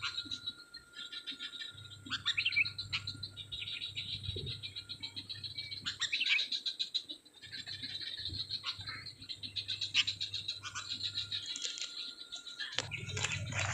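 Sooty-headed bulbuls chirping in short separate calls, over a high, fast-pulsing trill that comes and goes in stretches of a few seconds.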